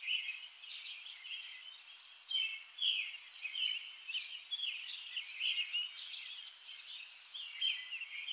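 Small birds chirping and singing, a steady run of short high notes repeating several times a second.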